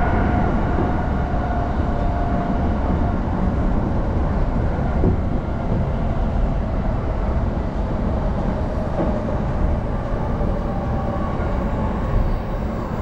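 Steady running noise inside a moving train car: a low rumble of wheels on the rails with a faint, even hum above it.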